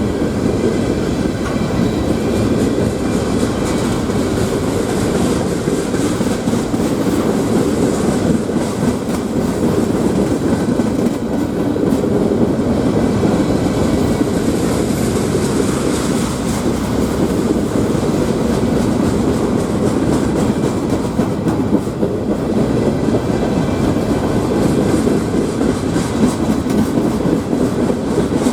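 Freight cars of a passing CSX freight train rolling by: a steady, loud rumble of steel wheels on the rails, with clicking as the wheels pass over the rail joints.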